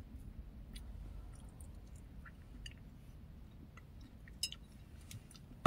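A person chewing a mouthful of cheesecake, quietly, with faint small mouth clicks. A sharper click comes about four and a half seconds in and another near the end.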